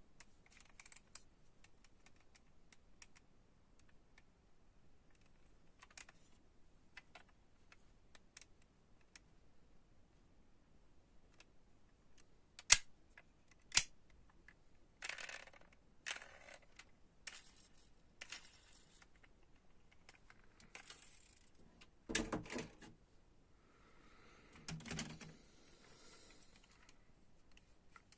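Small taps and clicks with short bursts of rustling, from diecast toy cars and their packaging being handled. Two sharp clicks about halfway through are the loudest sounds.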